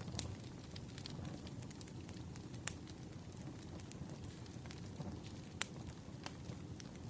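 Firewood burning: irregular sharp crackles and pops, a couple of them louder, over a steady low rumble.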